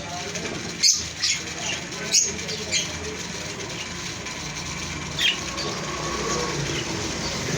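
Small pet parrots giving short, sharp chirps: several in the first three seconds and one more about five seconds in, over a steady low background hum.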